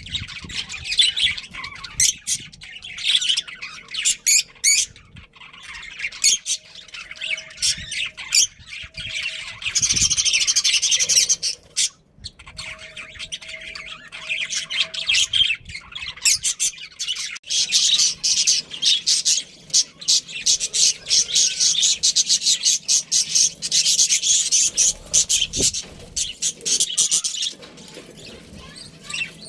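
Pet budgerigars chirping and chattering in rapid runs of short, high chirps, with dense unbroken chatter about ten seconds in and again over most of the second half.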